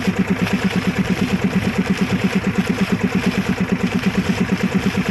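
Engine running steadily at idle, with an even thudding of about eight beats a second.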